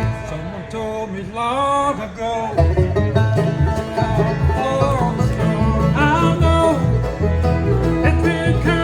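Bluegrass band playing acoustic string music, with sliding melody notes over a steady bass beat.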